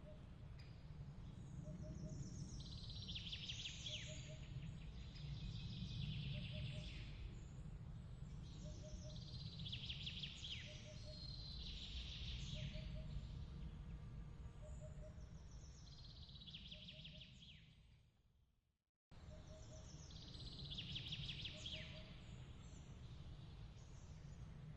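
Soft nighttime chirping in an ambience track: trilled high chirps repeating every couple of seconds over a steady low rumble, with a faint short pip about once a second. About three quarters of the way through, the whole track fades to silence and then cuts back in abruptly.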